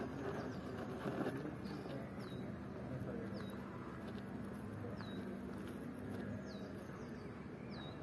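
A bird repeating a short, high chirp that slides down in pitch, roughly once every second or so, over steady background noise with a low hum.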